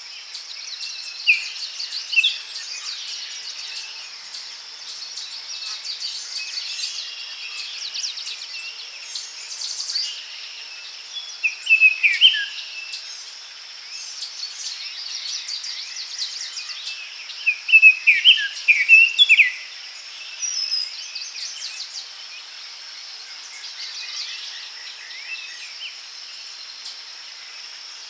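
Several birds singing and calling in a daytime forest, short chirps and falling whistles, with a louder burst of song about twelve seconds in and again around eighteen seconds, over a steady high insect buzz.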